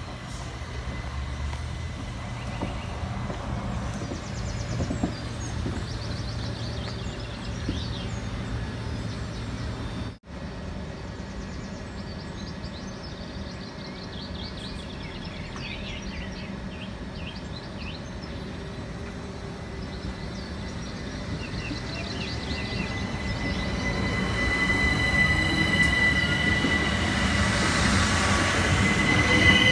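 Class 375 Electrostar electric multiple-unit train running at the station, with wheel squeal on the rails. It grows louder over the last several seconds, with a steady high whine.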